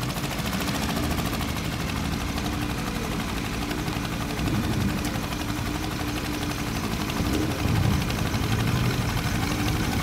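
American show car's engine running at low revs, with a couple of brief swells in pitch about halfway through and again near the end, as it pulls away.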